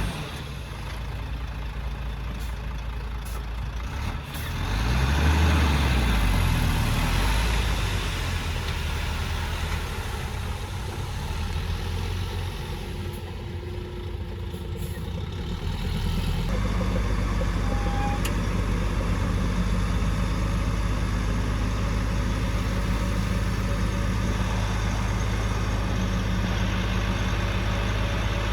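Heavy diesel engine of construction machinery running. It revs up about five seconds in and eases back down, then settles into a louder, steady run about two-thirds of the way through.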